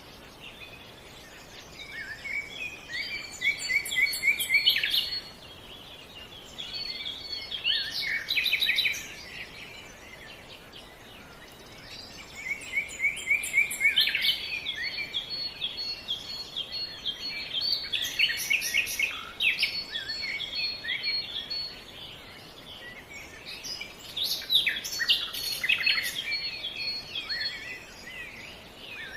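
Songbirds singing: bursts of quick, high chirps and trills that come and go every few seconds, over a faint steady hiss.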